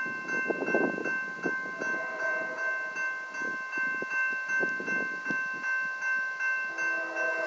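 Railroad grade-crossing bell ringing in rapid, even strokes as the crossing signal warns of an approaching train, with gusts of wind buffeting the microphone.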